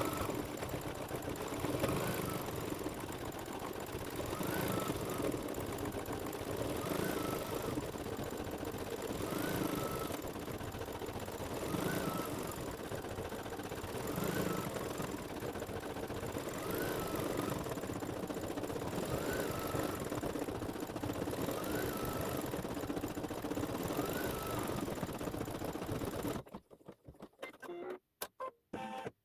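Embroidery machine stitching a row of small decorative dots in silver metallic thread, running steadily with a pattern that repeats about every two and a half seconds. It stops a few seconds before the end, leaving only a few faint clicks.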